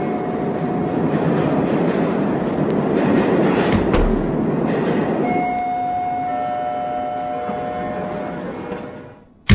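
Rumbling noise of a train running on rails, joined about halfway by several steady high tones, then fading out. A sudden loud thump comes at the very end.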